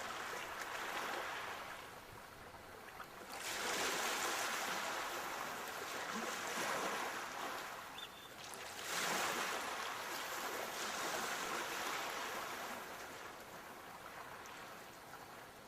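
Sea waves breaking and washing in, as a steady rush. A fresh wave surges in about three seconds in and again about nine seconds in, and the wash eases off near the end.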